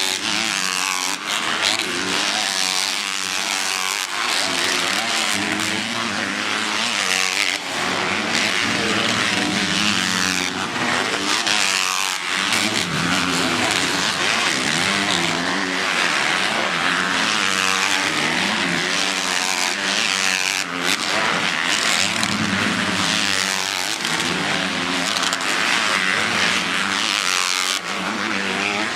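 Several motocross bikes racing on the track, their engines revving up and falling back over and over as riders accelerate, shift and pass, with the sounds overlapping.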